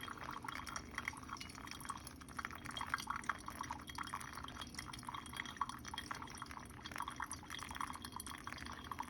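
Water being poured in a thin steady stream onto coffee grounds in a pour-over brewer, trickling and splashing.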